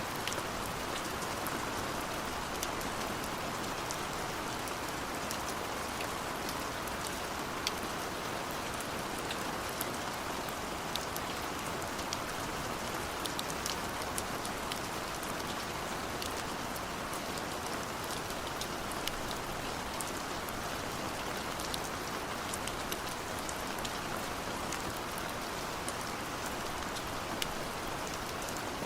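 Steady rain: an even hiss of falling rain, with many scattered sharp drop ticks.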